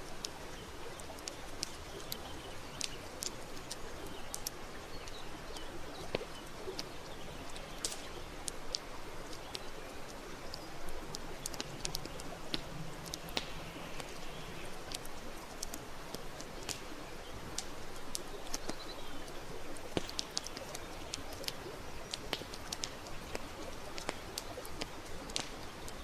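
Wood campfire crackling, with many sharp, irregular pops over a steady hiss. A bird coos low for a couple of seconds around the middle.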